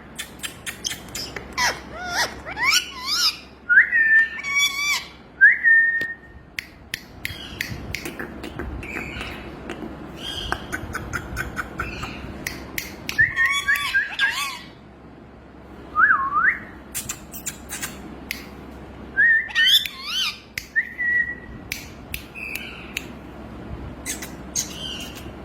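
Male Alexandrine parakeet vocalising: short rising and falling whistles around 1–2 kHz, a few briefly held whistle notes, runs of sharp clicks and some harsher squawks, in bouts with short pauses between.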